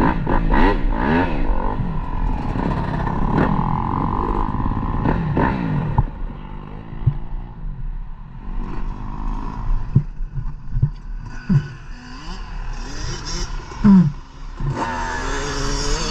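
Dirt bike engine revving up and down for the first six seconds, then falling back to quieter running with scattered knocks and clatter. A loud thump comes near the end, and the engine revs up again.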